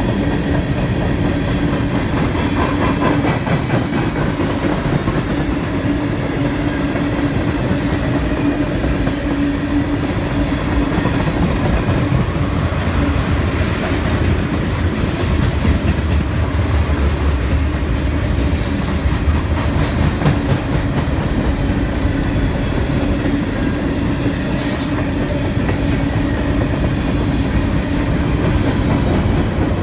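Freight train cars rolling past: a steady rumble of wheels on rail with rapid clicks of wheels over rail joints, and a steady tone running through most of it. The low rumble grows heavier around the middle.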